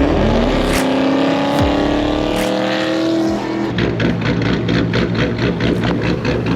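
A Camaro's exhaust, newly fitted with an X-pipe and bigger tips, as the car accelerates: the engine note rises for about three seconds. After that it breaks into a quick, even pulsing.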